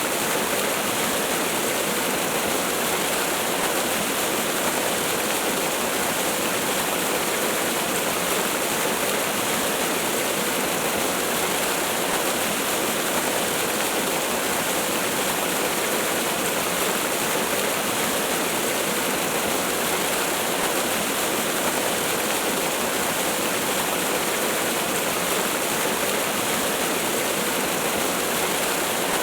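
Waterfall: a steady, unbroken rush of falling water, an even hiss with little low rumble.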